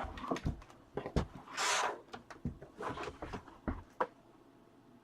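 Light knocks and clicks of things being handled and moved on a desk, with a brief rustle a little under two seconds in; the sounds stop about four seconds in.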